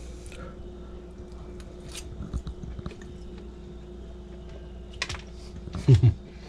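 A person chewing a mouthful of hot omelette, with faint soft mouth clicks over a steady faint hum, and a short loud low sound in two quick pulses near the end.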